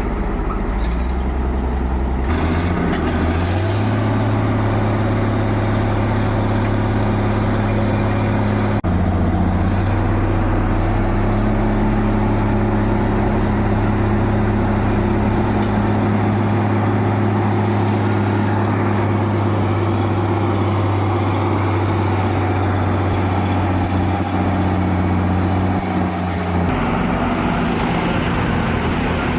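Steady engine sound of a vehicle running, its pitch jumping abruptly to a new level a few times, sharply about nine seconds in and again near the end.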